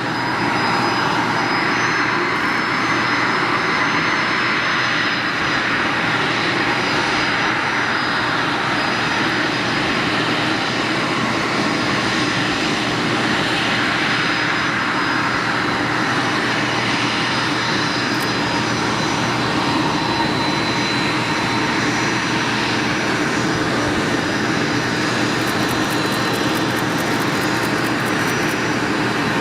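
Bombardier Challenger 605 business jet's twin turbofan engines running steadily: an even rushing jet noise with a faint high whine over it.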